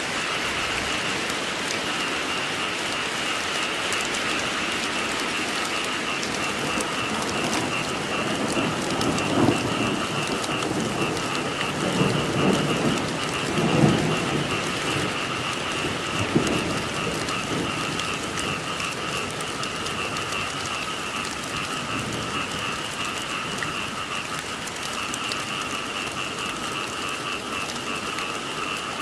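Steady rain falling, with a chorus of frogs croaking steadily in two high pulsing voices, and several low rumbles of thunder in the middle.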